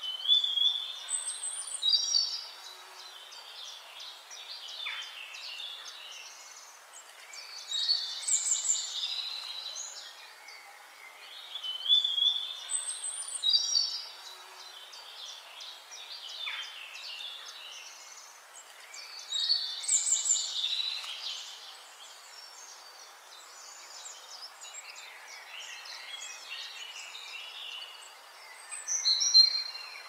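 Several songbirds singing, with bursts of chirping song phrases every several seconds over a steady faint hiss.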